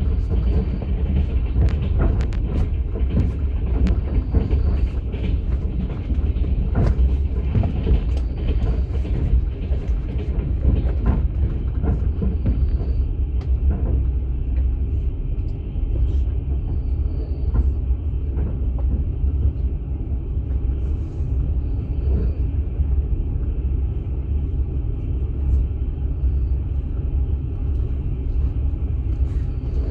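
Passenger train carriage running on the rails: a steady low rumble with frequent rattles, clicks and knocks of wheels on the track.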